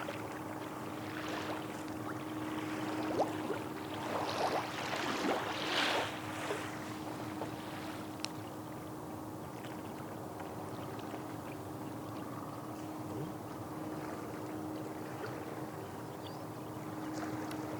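Small waves washing on the shore of the bay, with a steady low hum underneath. There is a cluster of louder splashing surges about four to six seconds in.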